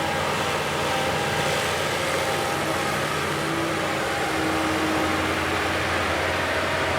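Heavy earthmoving machine's diesel engine running steadily at a low, even pace, with a faint higher steady whine joining for a couple of seconds in the middle.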